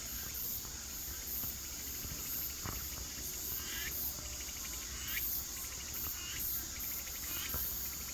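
Chorus of chirping insects such as crickets or katydids: a steady, high-pitched pulsing with a short trill repeating every second or so.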